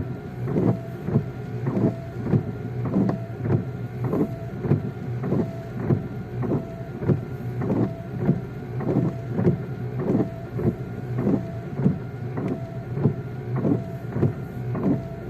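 Windshield wipers sweeping in a steady rhythm, about three strokes every two seconds, inside a car driving in the rain. Under them run the low hum of the engine and road and the hiss of rain.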